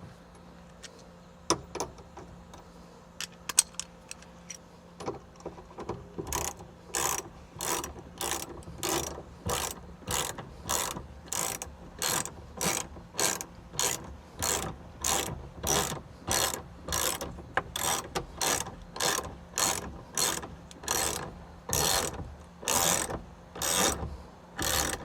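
Hand ratchet tightening a steering-wheel nut onto the steering shaft: a few scattered clicks, then a steady run of short ratcheting strokes, about one and a half a second.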